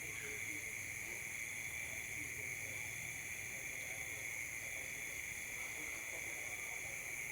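Steady chorus of insects such as crickets, shrilling without a break at several high pitches at once.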